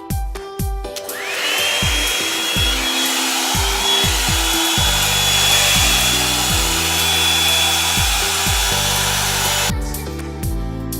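Revlon volumizing hot-air brush dryer switched on about a second in: its motor whine rises quickly as it spins up, then it runs steadily with a loud rush of air and a high, even whine, stopping abruptly near the end. Background music with a steady beat plays underneath.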